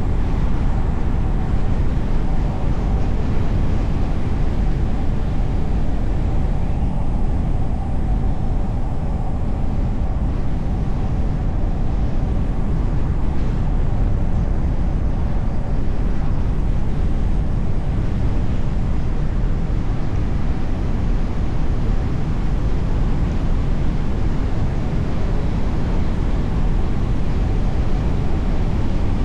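Steady road and traffic noise from a car driving on city streets: an even, deep noise with no sharp events. A faint steady hum runs through the first third.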